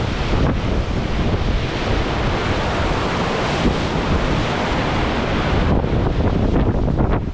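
Storm wind blowing hard across the microphone over the steady rush of big sea waves.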